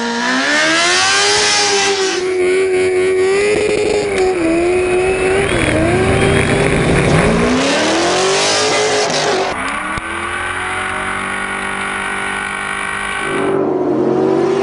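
Drift car's engine revved hard and held high, its pitch dipping and climbing as the throttle is worked, with tyre squeal as the car slides. The revs drop back about two-thirds of the way through and climb again near the end.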